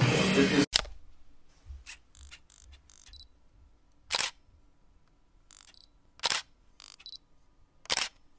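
Camera shutter clicks, single shots with pauses between, after music cuts off just under a second in. Three of the clicks, about two seconds apart in the second half, are louder than the rest.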